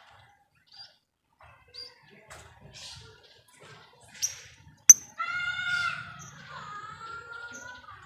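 Lovebird giving a few short, high chirps, with a sharp click about five seconds in, followed by a longer wavering call that runs to the end.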